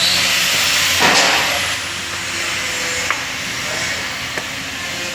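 A rushing hiss that swells over the first second or two, then a few light, sharp clicks, as the cover of a seat-belt retractor is fitted.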